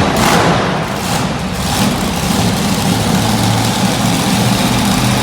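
Monster truck engine running steadily at low revs, close to idle, loud and with a heavy low hum.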